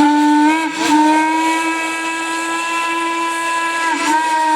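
Steam locomotive whistle blowing: a short blast, then a long steady blast of about three seconds, broken briefly near the end before it sounds again.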